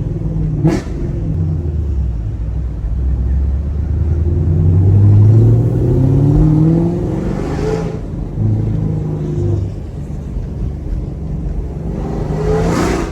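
Chevrolet Camaro SS 1LE's naturally aspirated V8 pulling in gear, its note rising steadily for several seconds and then dropping away about eight seconds in before running on at a lower, steady pitch. A single sharp click comes under a second in.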